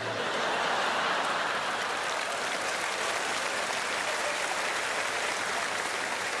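Audience applauding: a steady round of clapping.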